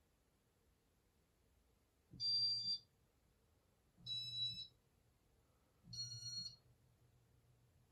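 Casablanca California Zephyr ceiling fan beeping three times in demo mode, each beep about half a second long and a slightly different pitch, about two seconds apart, with a low hum under each beep; a faint low hum carries on after the last beep.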